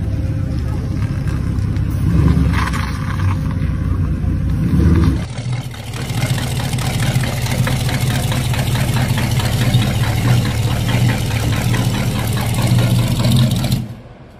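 Custom VW Beetle hot rods' front-mounted engines running loudly, surging about two and five seconds in. After a cut, the Volksrodder's V8 runs at a steady, evenly pulsing idle that stops abruptly near the end.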